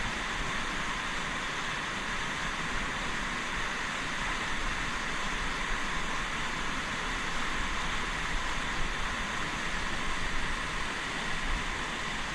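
Steady rush of fast-flowing mountain river water.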